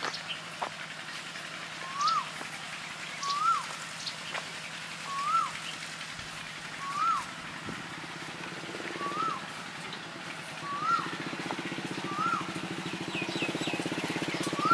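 A bird calling a short rising-then-falling note over and over, about once every one and a half seconds. A steady motor hum runs underneath and grows louder in the second half.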